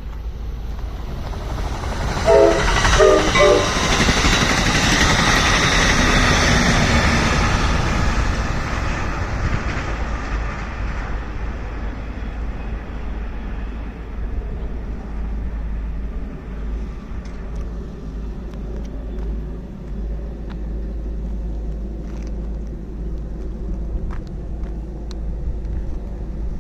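A passing train sounds a few short blasts of its multi-note horn about two seconds in. Then comes the loud rush of the train going by, which fades away, leaving a steadier, softer rumble.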